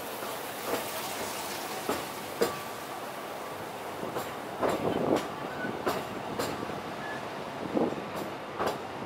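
Steam park-railway train rolling along, heard from a passenger car: a steady running noise with irregular clicks and clacks from the wheels.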